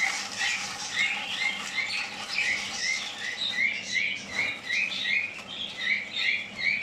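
Caged birds chirping: short high chirps repeated steadily, about two a second.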